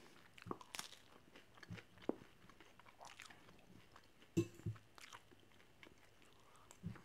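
A person chewing a mouthful of bread and lentil stew, with faint irregular mouth clicks and small crunches, and a slightly louder short knock about four and a half seconds in.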